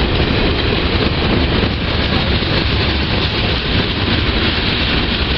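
Norfolk Southern train passing close by: a loud, steady rumble and clatter of wheels on rail over a low drone.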